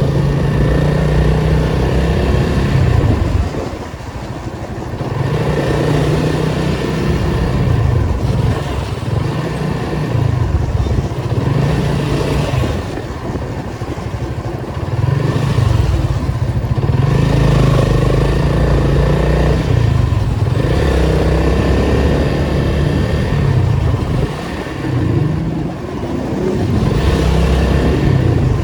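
Nissan 280Z's straight-six engine driving in traffic, repeatedly pulling up through the revs and easing off, with a brief drop in level a few times as it lifts off between gears.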